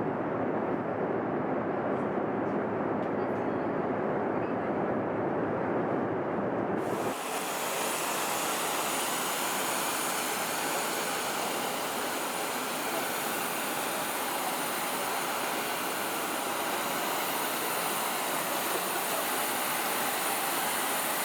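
Steady jet airliner noise: a muffled rumble that changes sharply about seven seconds in to a brighter rushing hiss with a high, steady whine.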